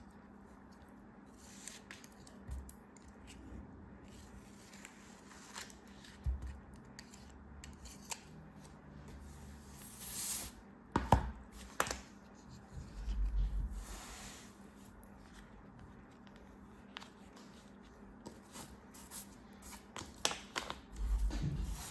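Packaging being handled and cut open by hand: scissor snips and crinkling plastic, with scattered sharp clicks, a brief hiss about halfway through and a few soft thumps.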